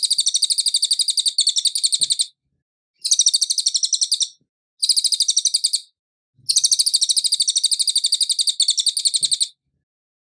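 Cililin bird singing: rapid high-pitched trills in four bursts with short gaps, the first and last lasting about three seconds, ending about a second before the end.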